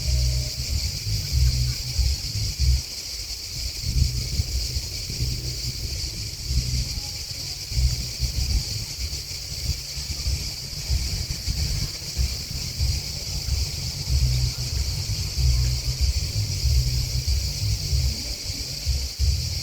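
Steady, high-pitched chorus of insects singing in a field, with no breaks. Gusts of wind buffet the microphone, and this low rumble is the loudest sound, rising and falling every second or two.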